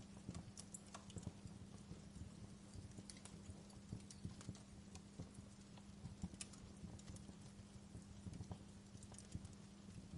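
Wood fire burning low in a fireplace, crackling quietly with irregular small snaps and pops over a steady low hum.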